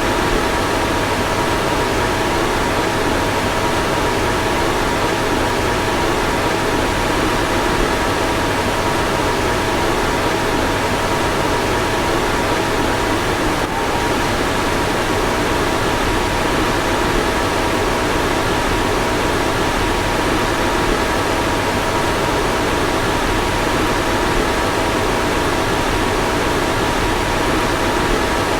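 A car's fan blowing steadily: an even rush of air with a faint steady hum running through it, and one faint click about halfway.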